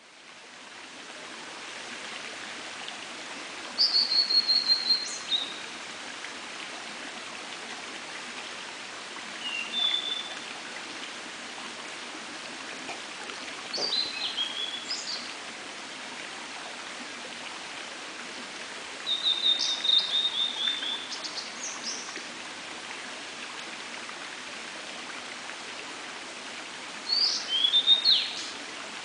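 Blue-and-white flycatcher singing: five separate song phrases, each a second or two of high clear whistles running into a quick series of falling notes. A steady rushing background, like a stream, runs beneath.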